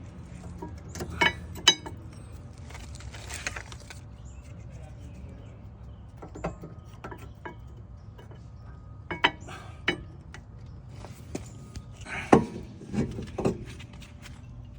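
Metal tools and brake parts being handled: scattered clinks, knocks and scrapes, a few sharp clinks with a short ring, over a low steady hum.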